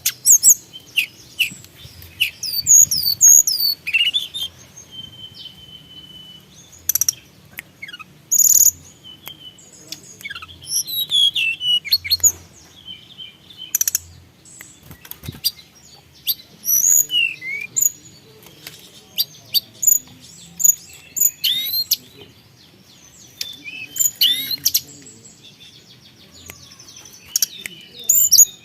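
A tledekan gunung singing energetically: quick runs of short, high whistles and chirps, many sliding up or down, mixed with sharp clicks, in bursts with brief pauses between them.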